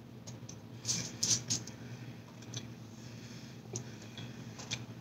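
Close-up chewing of a mouthful of burger: soft wet mouth clicks and smacks, with a cluster of louder ones about a second in.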